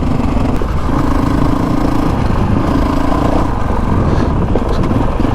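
Honda CRF450RL dual sport motorcycle's single-cylinder four-stroke engine running at an easy, steady cruise, its note holding fairly level, over a heavy rumble of wind and road noise.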